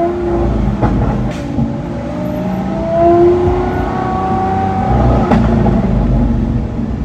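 Performance car engine revving, rising in pitch twice, with a few sharp cracks.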